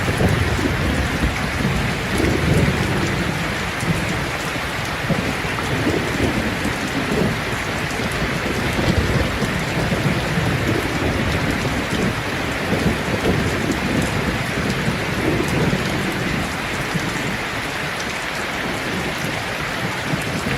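Steady heavy rain falling, with a low rumble that swells and fades throughout.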